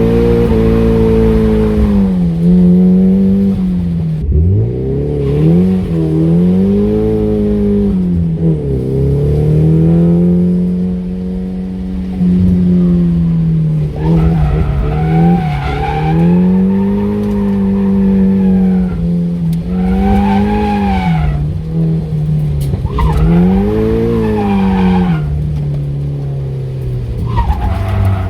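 Nissan S15 Silvia's four-cylinder engine revving up and down again and again through drifts, with tyres squealing several times in the second half.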